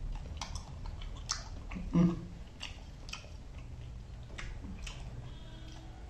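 A person chewing food close to the microphone: wet mouth clicks and smacks about every half second, with one brief louder sound about two seconds in.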